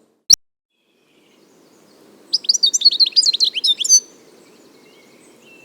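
European goldfinch singing: a single sharp note shortly after the start, then after a pause a quick burst of rapid, liquid twittering notes lasting under two seconds.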